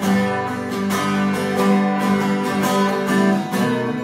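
Acoustic guitar strumming chords in a slow blues ballad, an instrumental passage between sung lines.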